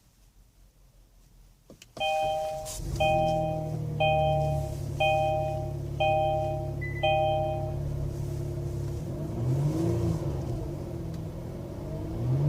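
A 2016 Kia Sorento SX's 3.3-litre V6 cranks and starts about two seconds in, then settles into a steady fast idle. Over it the dashboard warning chime sounds six times, about once a second. Near the end the engine is revved, rising and falling in pitch twice.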